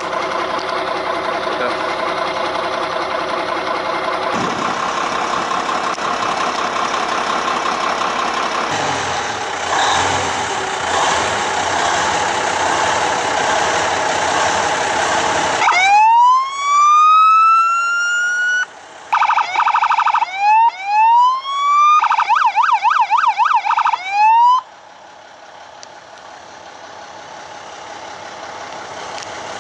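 Fire truck engine running with a steady drone, then its electronic siren switched on about sixteen seconds in: a quick rising wail held for a couple of seconds, then a rapid alternating tone, several short rising whoops and a fast warble, before the siren cuts off suddenly and the engine is heard alone.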